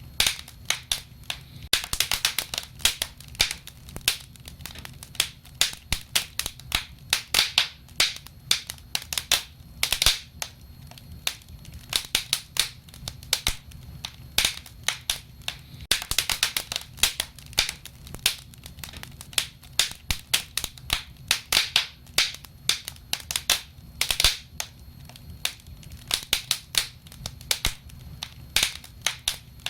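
Wood fire crackling: dense, irregular sharp pops and snaps, some in quick clusters, over a low steady rumble.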